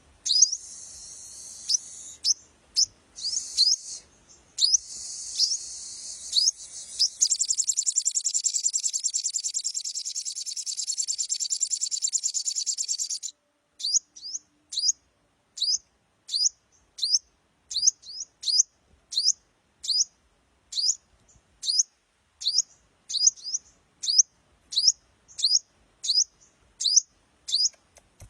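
A sogon songbird singing in the rapid ngleper style: repeated sharp, high, downward-swept chirps. From about seven to thirteen seconds in they run together into one continuous fast high trill, then break back into single chirps, one or two a second.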